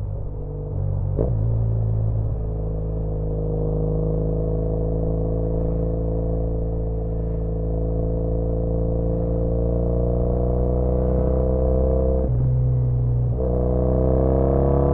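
2013 Triumph Bonneville T100's air-cooled parallel-twin engine, through British Customs Sleeper Pro exhausts, pulling under load on the move. Its pitch climbs slowly through a gear, drops suddenly at a gear change about twelve seconds in, then climbs again.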